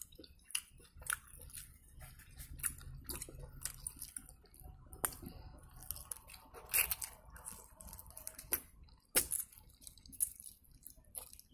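Close-up eating sounds of a person chewing instant ramen noodles and shrimp: wet mouth clicks and smacks throughout, with a few louder ones.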